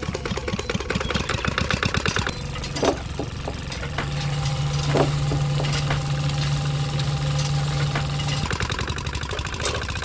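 Small engine running, with rapid even firing pulses for the first couple of seconds, then settling into a steady low hum broken by a few sharp knocks.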